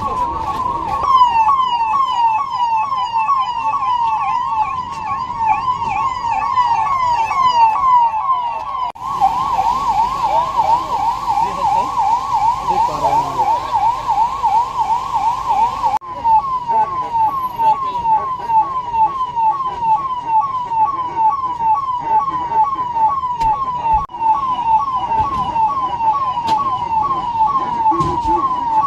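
Electronic siren sounding a fast, repeating rise-and-fall yelp, about three sweeps a second, as used to raise the alarm for an emergency drill. It breaks off for a moment three times.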